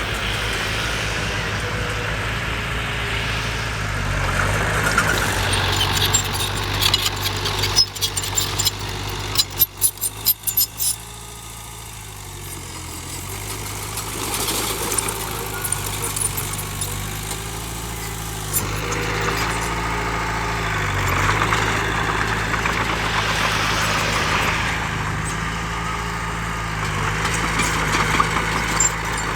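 Heavy diesel engine of earthmoving machinery running and changing load, its pitch stepping up and down several times. A run of sharp clanks and knocks comes about 8 to 11 seconds in.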